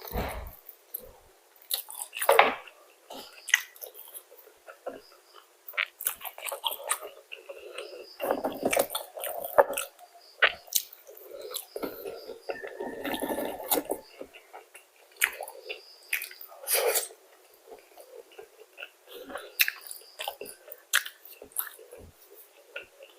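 A person eating fried chicken close to the microphone: irregular chewing, biting and wet mouth smacks with short crisp crackles.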